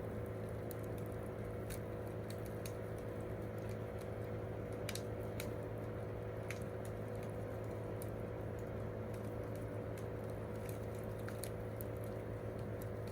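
Wood campfire crackling, with scattered sharp pops and snaps over a steady low hum.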